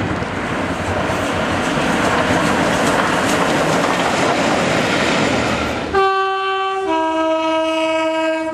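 LNER A3 Pacific steam locomotive Flying Scotsman and its coaches passing through at speed, a loud, steady rush of wheel and rail noise. About six seconds in the sound cuts abruptly to a diesel locomotive's two-tone horn: a high note for about a second, then a lower note held for about two seconds.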